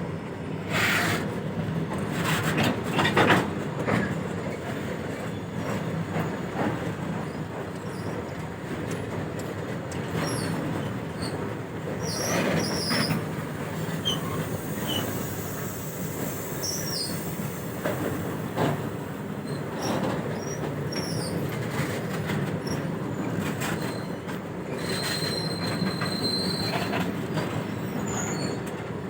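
Goods train wagons rolling past on steel wheels: a continuous rumble and clatter with scattered knocks, and short high wheel squeals, one held for a couple of seconds near the end.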